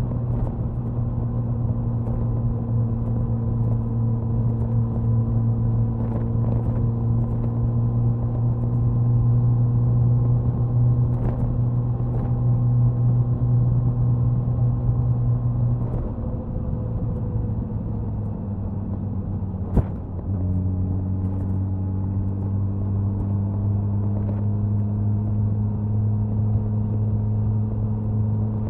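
Suzuki Hayabusa inline-four motorcycle exhaust cruising at a steady pitch at expressway speed, with wind noise. Past the middle the engine note sinks as it slows. A sharp click follows, then the exhaust settles into steady running again and slowly climbs in pitch.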